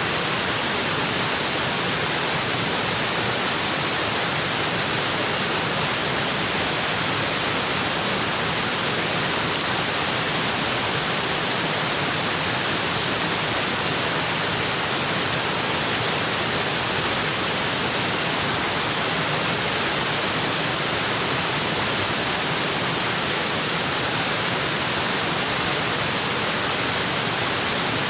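Waterfall in a tropical forest, water falling onto rocks in a steady, unbroken rush.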